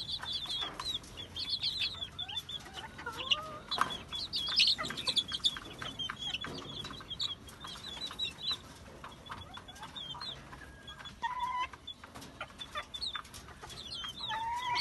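Village-chicken chicks peeping in a quick, high, overlapping chorus, with a few lower calls from larger birds now and then.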